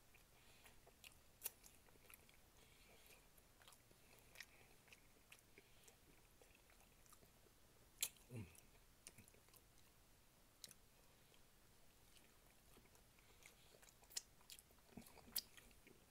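Faint close-up chewing of tender oxtail meat, with scattered wet mouth clicks and lip smacks. One louder click comes about eight seconds in.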